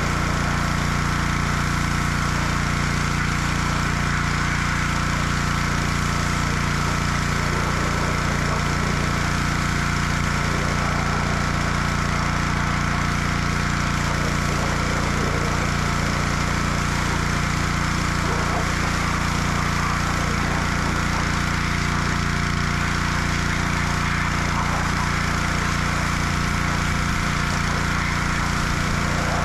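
Gas pressure washer engine running steadily at a constant speed.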